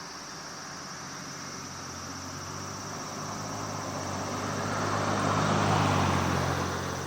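A motor vehicle's engine passing by, growing steadily louder to a peak about six seconds in, then starting to fade.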